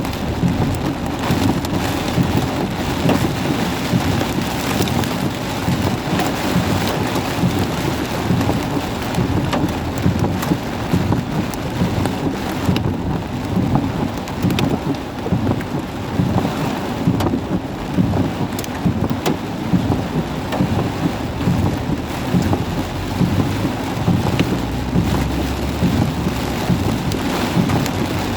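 Heavy thunderstorm rain pouring steadily, dense drops pelting hard surfaces, with a low rumble late on.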